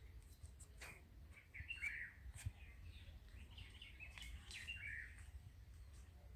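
Faint birds chirping: scattered short calls, a few in quick groups, over a low rumble.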